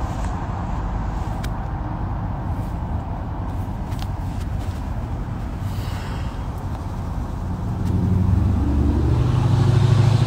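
Car engine running, heard from inside the cabin as a steady low rumble, with a few faint taps from the phone being handled. In the last two seconds a low droning engine note comes in and grows louder.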